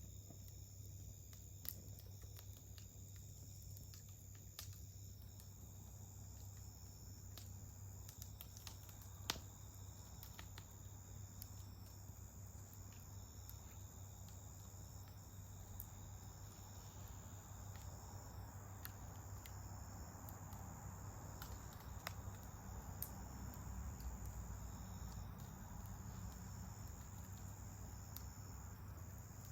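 Wood campfire crackling faintly with scattered sharp pops, one louder about a third of the way through, over a steady high chirring of insects. A soft hiss swells in the second half.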